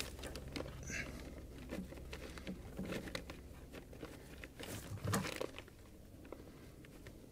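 Faint clicks and light scraping of a brake line union nut being started by hand into the ABS pump, with a slightly louder knock and rustle about five seconds in.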